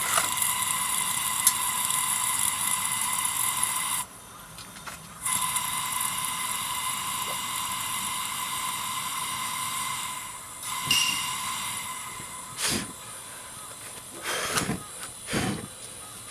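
A steady hiss with a thin whistle-like tone in it. It cuts out briefly about four seconds in, comes back, then fades, with a few knocks near the end.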